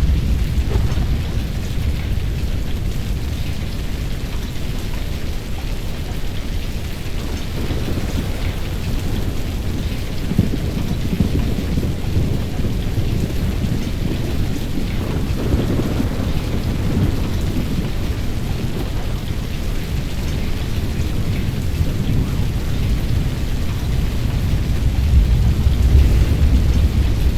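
Thunderstorm: steady rain with low rumbling thunder that swells several times.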